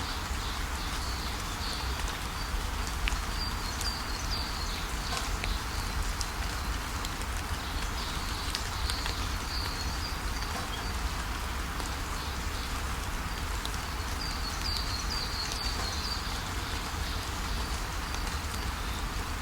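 Outdoor ambience: a steady noisy hiss over a low rumble, with small birds chirping on and off at a high pitch, most around three to six seconds in and again near the end.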